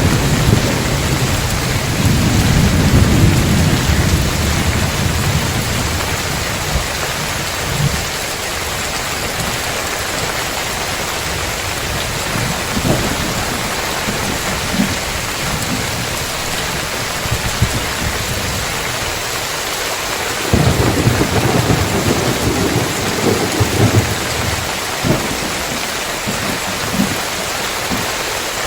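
Heavy rain pouring steadily on roof tiles, with thunder rumbling: a low rumble over the first several seconds dies away, and a new one starts suddenly about twenty seconds in.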